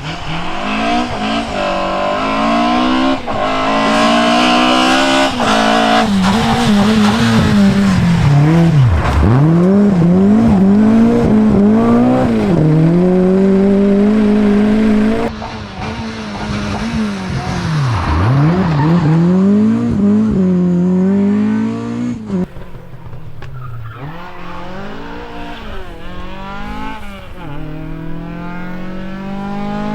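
Historic rally car engines at full throttle, revving high with the pitch climbing and then dropping sharply over and over as the drivers lift and change gear. About halfway and again about two-thirds through, the sound switches abruptly to a different car.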